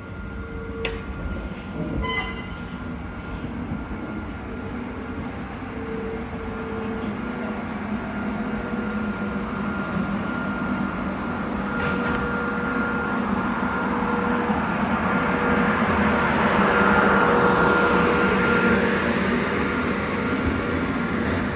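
Hakone Tozan Railway Moni 1 electric freight car running on the track, its motors and wheels growing steadily louder as it comes closer and loudest a few seconds before the end. There is a brief sharp sound about two seconds in.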